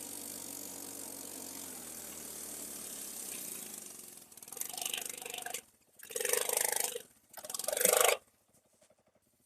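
Irbis Dingo T110 snow moped's small single-cylinder four-stroke engine running steadily for about four seconds, then three loud bursts of revving, each cutting off sharply, before the sound drops out near the end.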